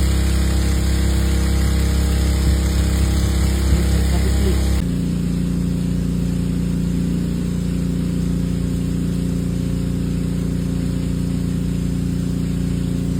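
A motor or engine running steadily with a constant hum. About five seconds in it changes abruptly to a different, higher-pitched steady hum.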